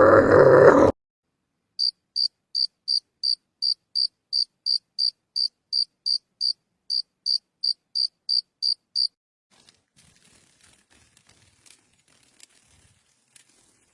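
A loud animal grunt cut off within the first second, then a cricket chirping: about twenty short, high chirps at an even pace of roughly three a second, stopping about nine seconds in. Faint crackling follows near the end.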